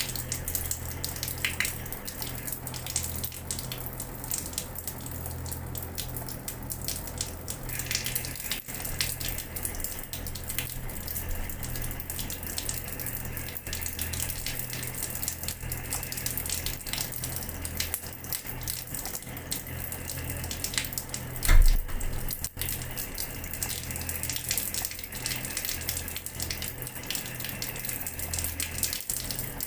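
Water running from a tap, a steady splashing rush with many small splashes. A single brief low thump about two-thirds of the way through.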